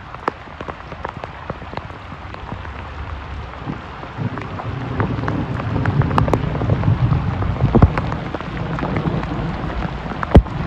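Heavy rain coming down, with many separate drops striking close by over a steady hiss. A low rumble swells in from about four seconds and fades again before the end, and a single sharp knock stands out near the end.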